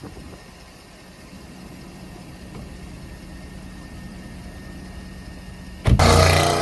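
The 4.8-litre V8 of a 2009 Porsche Panamera 4S idling steadily, with a loud sudden burst of sound about six seconds in.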